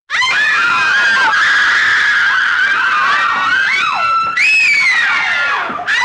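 Several voices screaming at once as a horror sound effect: overlapping high wails that bend up and down in pitch. It starts abruptly out of silence, swells again about four seconds in, and dips briefly near the end.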